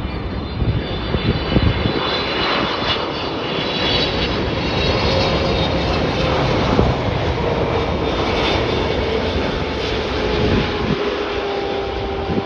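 Boeing 777-300ER's twin GE90 turbofan engines on final approach: a steady jet roar with a whine that slowly falls in pitch as the airliner goes by.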